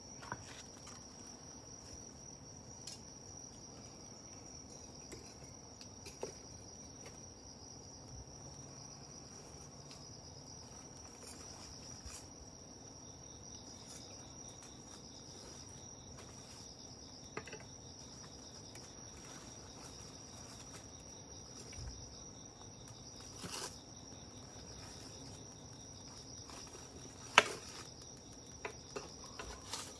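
Night insects chirping steadily at a high pitch, with a campfire giving scattered pops and crackles. The sharpest pop comes near the end.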